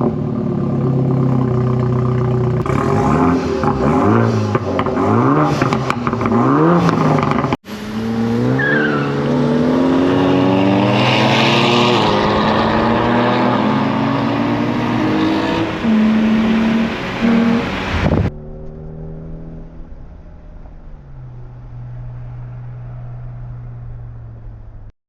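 Sports car engines revving again and again, then, after a brief break about seven and a half seconds in, a car accelerating hard with its engine pitch climbing. About eighteen seconds in the sound drops suddenly to a quieter, steady engine hum.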